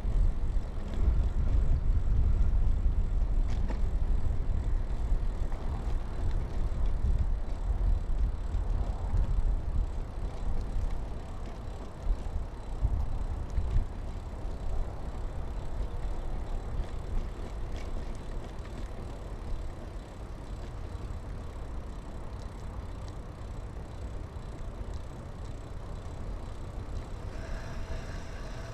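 Riding noise from a 2000 Kona Blast hardtail mountain bike: a steady low rush of wind and tyre rumble with a few light clicks, easing after about twenty seconds.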